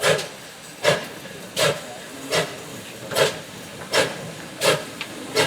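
Ex-GWR steam tank locomotive working slowly, its exhaust beating out short, even chuffs about one every 0.8 seconds over a steady hiss.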